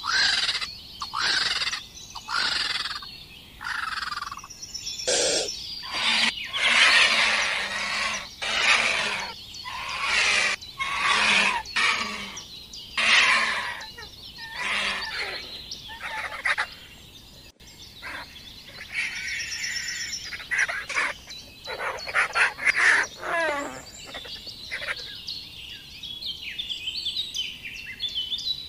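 Bird calls, many rasping, noisy calls in quick succession, with a few falling calls a little past the middle and thin, high chirps near the end.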